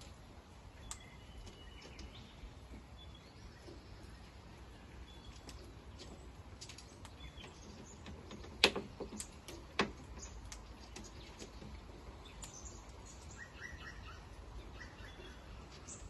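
Faint bird chirps and short calls, broken by two sharp taps about a second apart near the middle.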